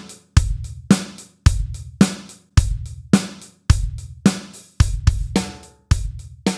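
Drum kit playing a steady rock groove at about 110 beats a minute: bass drum on every beat, snare on the backbeat and hi-hat in eighth notes.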